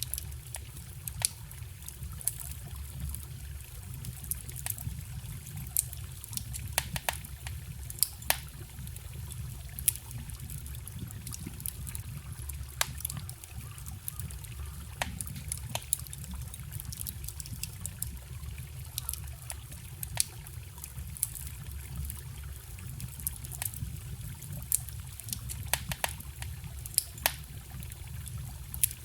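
Campfire crackling with sharp, irregular pops, over the steady low rush and trickle of a forest stream.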